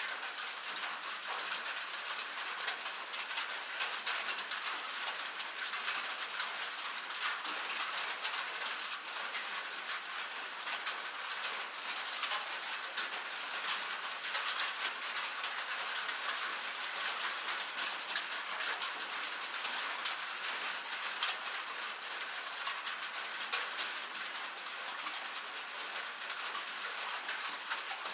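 Steady rain on a metal roof: a dense, even patter of countless small drop ticks on the sheet metal, with no let-up.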